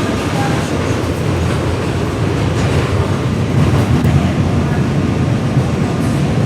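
New York City subway car on the F local running between stations, heard from inside the car: a steady rumble of wheels on the rails and car noise with faint clicks, getting slightly louder.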